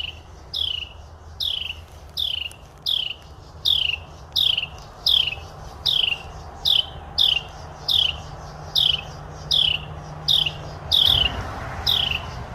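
A small bird giving its alarm call over and over at a cat: a short, high note sliding downward, repeated evenly about every three quarters of a second.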